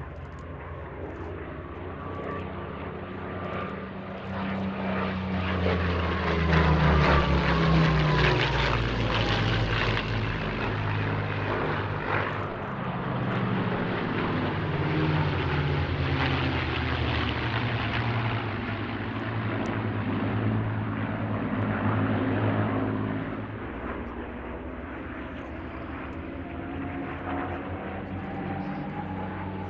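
Propeller-driven WW2 fighter aircraft flying past in a display. The engine note swells to its loudest about seven seconds in and drops in pitch as the aircraft goes by, stays strong, then eases off. Near the end another aircraft approaches with a rising note.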